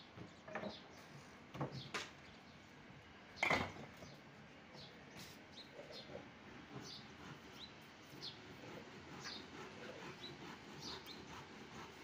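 Faint outdoor ambience with a few knocks, the loudest about three and a half seconds in, and scattered short bird chirps through the second half.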